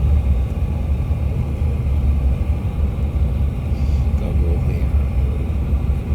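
Cabin noise inside a CRJ700 regional jet: a steady low rumble.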